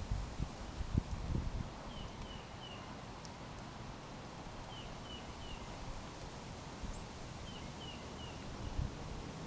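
A backyard songbird calling in short runs of three quick chirps, repeated about every two and a half seconds, over steady outdoor background noise. A few low thumps come in the first second or so.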